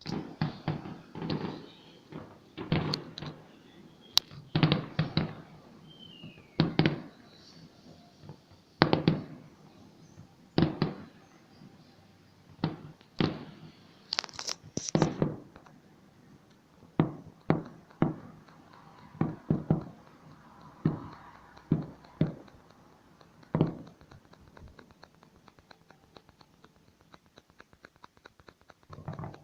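A fireworks display: a long series of separate bangs, irregularly spaced about a second apart, each with a short echo, stopping about three quarters of the way through and leaving only faint ticks.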